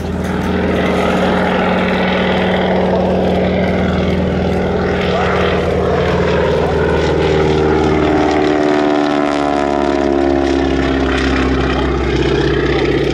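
Propeller aircraft engine running steadily through a flying display. From about eight seconds in its pitch slides down as the plane flies past.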